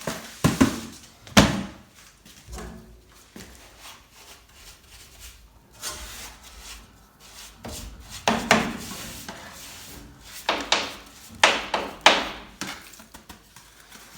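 Irregular knocks and scraping, as of wood being handled and shifted about. There are two sharp knocks in the first second and a half, then a run of knocks and scrapes from about eight to twelve seconds in.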